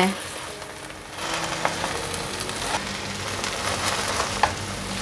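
Shredded taro and pumpkin patty sizzling in shallow oil in a frying pan as it sets into a cake, the sizzle growing louder about a second in. A silicone spatula cuts through the patty against the pan, adding a few soft clicks and scrapes.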